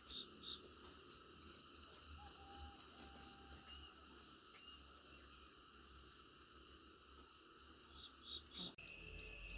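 Faint insect chorus: several steady high-pitched trills, with a run of short chirps at about four a second. Near the end it cuts suddenly to a different steady high whine over a low hum.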